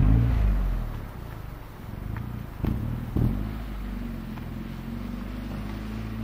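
Turbocharged 1.8-litre four-cylinder engine of a 1999 Audi A4 1.8T quattro running under hard driving. There is a loud sharp crack right at the start, two more sharp cracks about two and a half and three seconds in, and then a steadier engine note.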